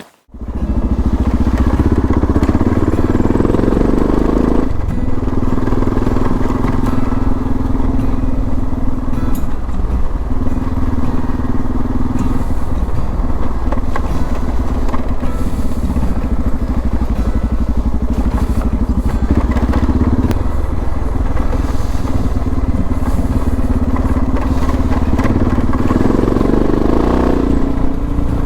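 Suzuki DR650's single-cylinder four-stroke engine running under way, the pitch shifting up and down several times with the throttle and gear changes, and rising near the end.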